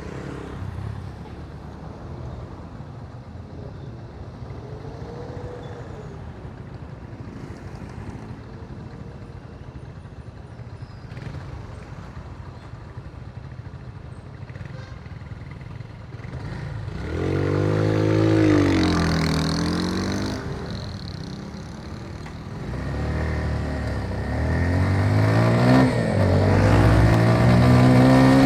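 Motorcycle engine and road noise at a steady low note, then about two-thirds of the way in the engine revs up hard twice, its pitch climbing and dropping as it accelerates and changes gear.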